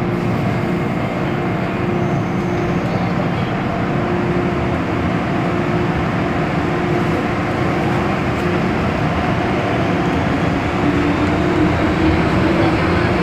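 MTR M-Train electric multiple unit running in the tunnel, heard from inside the car: a steady rumble of wheels on track with a motor hum. Near the end the hum climbs a little in pitch and the noise gets slightly louder.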